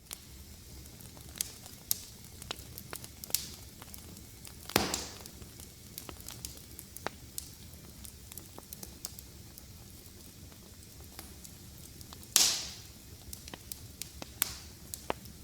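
Wood fire crackling, with frequent small sharp pops over a low steady rustle of flames. Two louder snaps, each trailing a brief hiss, come about five seconds in and again about twelve seconds in.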